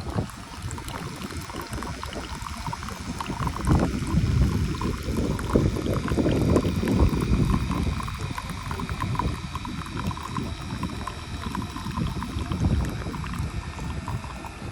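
Wind buffeting the microphone outdoors: an uneven low rumble that swells in gusts through the middle, over a steady background hiss.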